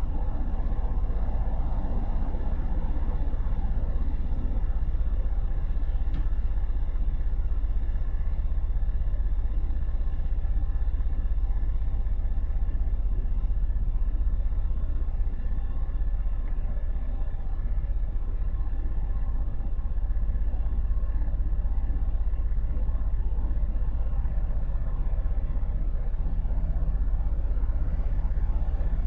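Motorcycle running through city traffic, heard from on the bike: a steady low engine rumble with road noise over it.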